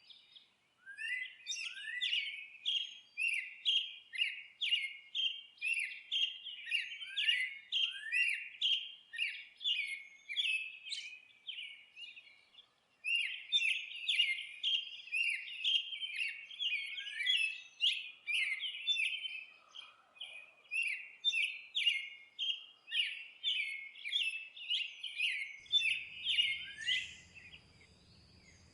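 A songbird singing a long run of quick, repeated downslurred chirps, several a second, broken by a short pause about halfway through.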